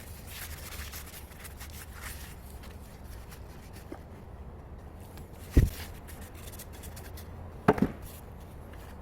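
Two heavy knocks over a steady low hum: a single sharp one past the middle and a quick double knock near the end.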